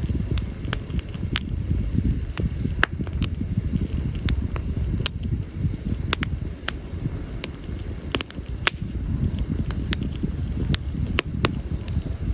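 Wood campfire burning: irregular sharp crackles and pops, some single and some in quick clusters, over a steady low rumble.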